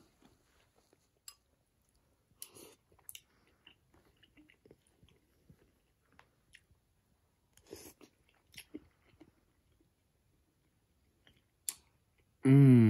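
A person chewing a mouthful of stewed rabbit and cabbage: soft, scattered mouth clicks and smacks. A hummed "mmm" comes near the end.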